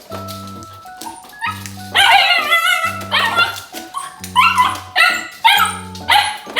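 Puppy yipping and whining: a wavering cry about two seconds in, followed by a run of short high yelps. Background music with a repeating bass pattern plays underneath.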